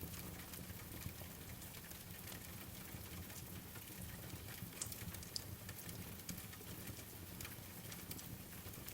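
Steady rain pattering, with scattered sharp crackles from a wood fire over a low, even rumble.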